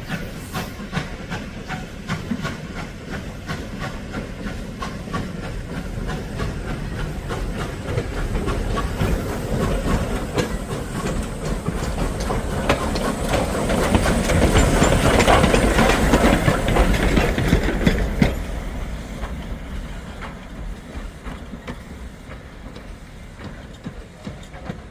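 Train running on rails, its wheels clattering in a dense stream of clicks with a hiss. It grows louder to a peak about two-thirds of the way through, then fades away.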